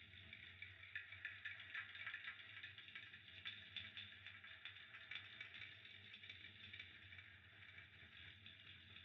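Fireplace fire crackling faintly: many small irregular pops and ticks over a soft hiss, with a low hum underneath.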